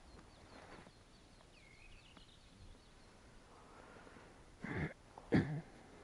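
Faint birdsong: a small bird's high chirp repeated over and over, and one call that swoops down and back up. Near the end, two short, loud noises come less than a second apart.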